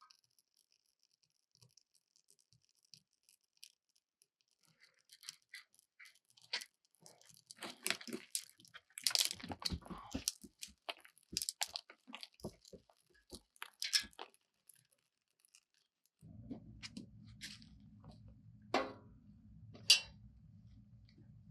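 Quiet rustling, crunching and scraping of something being handled, in irregular short strokes that come thickest in the middle. About 16 seconds in a low steady hum starts, with a couple of sharp clicks on top of it.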